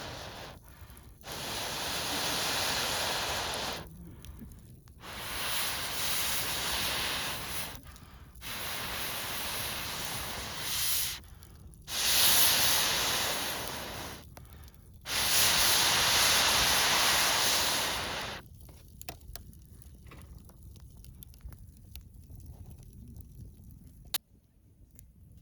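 Air blown hard into a campfire in five long hissing puffs of two to three seconds each, with short pauses between, to fan the fire up. After the last puff the fire crackles lightly.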